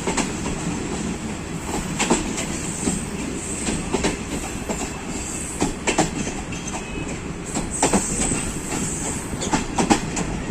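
Passenger train running on the track: a steady rumble of wheels on rails with irregular sharp clacks as the wheels cross rail joints and points, and a faint high wheel squeal.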